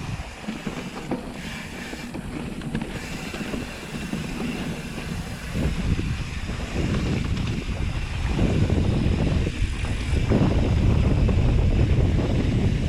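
Wind buffeting the microphone of a mountain bike ride, with a low rumble and scattered clicks from the bike rolling over a dirt trail. It grows louder about eight seconds in.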